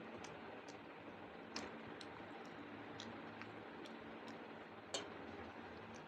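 Person eating at close range: irregular soft clicks and smacks of chewing, about nine in all, two louder ones about a second and a half and five seconds in, over a steady low hum.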